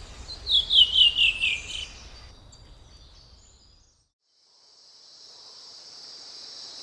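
A small bird's call: a quick run of about six chirps, each falling in pitch. After a short silence, a steady high insect chirring, like crickets, fades in.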